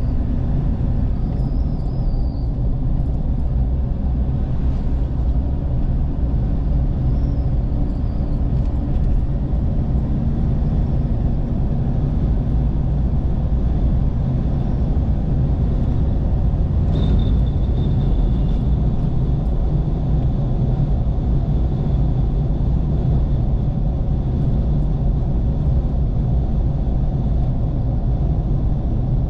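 Steady low rumble of a vehicle on the move: engine and road noise with no let-up, and a faint high whine coming in about halfway through.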